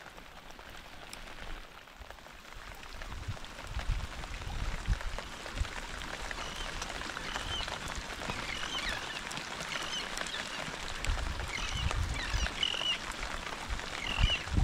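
Rain falling steadily, with some low wind rumble. From about six seconds in, short high chirping calls from small animals, birds or frogs of the marsh, repeat every second or so.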